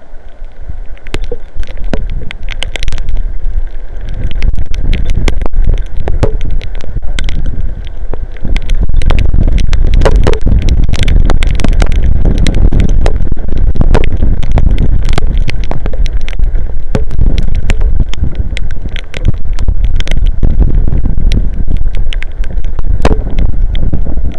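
Strong gusting wind buffeting an outdoor camera microphone as a low rumble, with heavy rain striking the housing in many sharp ticks. The gusts build about four seconds in and stay strong.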